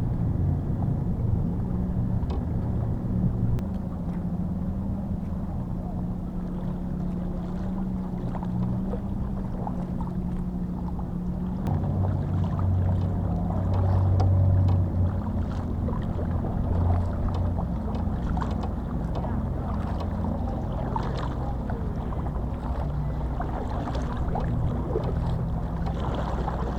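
Boat engine running steadily on the water, its note dropping deeper and a little louder about twelve seconds in, with wind and water noise around it.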